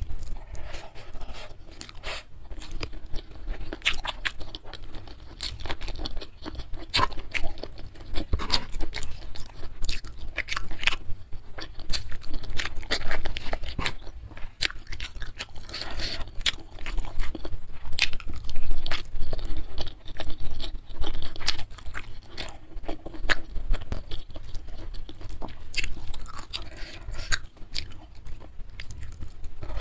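Close-miked chewing of mouthfuls of rice, spicy beef and raw sliced petai and young jengkol beans: a dense, irregular run of crunches and wet mouth clicks.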